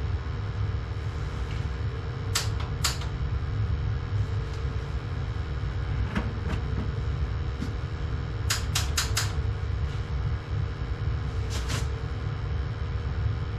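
Sharp single clicks of a gas water heater's pilot igniter being pressed while lighting it: a pair, then a quick run of four, then another pair. They sound over a steady low hum.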